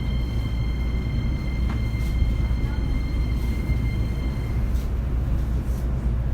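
E231 series commuter train heard from inside the carriage, running with a steady low rumble. A thin high whine from the traction equipment stops about four and a half seconds in, and a few light clicks come through.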